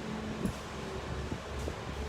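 Steady motor hum with a few faint clicks.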